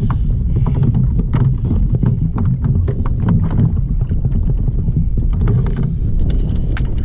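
Wind buffeting the microphone as a steady low rumble, with irregular light clicks and taps throughout.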